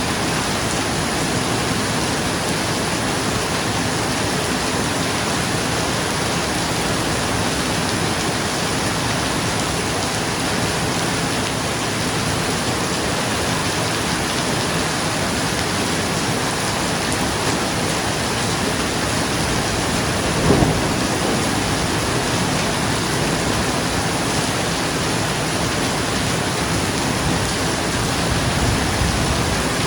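Steady heavy rain drumming on a roof, an even wash of noise. About two-thirds of the way through there is one brief, louder low thump, which may be a roll of thunder.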